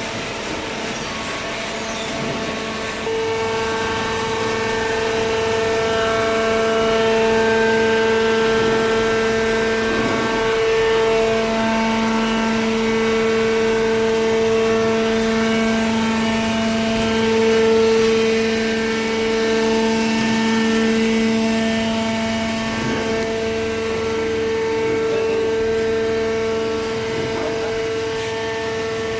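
Hydraulic baler's power unit running with a steady whine, stepping up in level about three seconds in.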